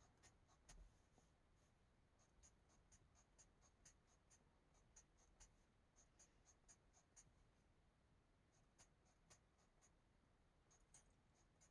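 Very faint, quick scratching strokes of a coloring tool on paper, a few strokes a second with short pauses.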